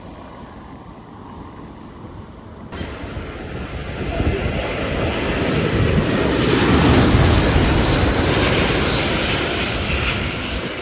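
Jet airliner's engines passing close by: after a quieter opening the noise steps up abruptly almost three seconds in, swells to its loudest past the middle, then slowly eases.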